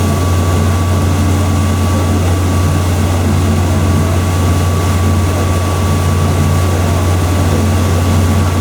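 Sightseeing boat's engine running steadily: a loud, even low drone with a thin, steady high whine above it.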